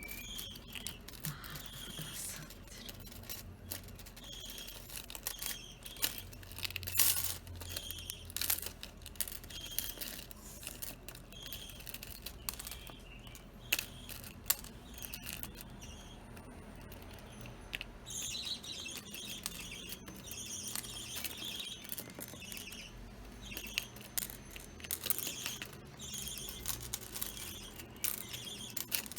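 Budgerigars chirping in short, quick, repeated calls, busier in the second half, with scattered sharp clicks.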